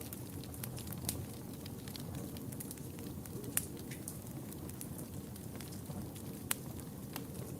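Wood fire in a fireplace burning with a steady low rumble and scattered sharp crackles and pops, the loudest about three and a half seconds in and again near the end.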